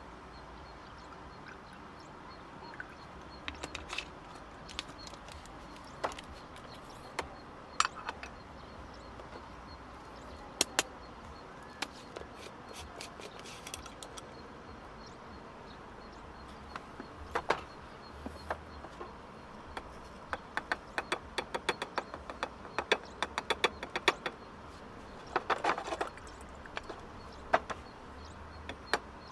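Irregular sharp clicks and light knocks over a steady faint background noise. They are sparse at first and come thicker and faster in the second half.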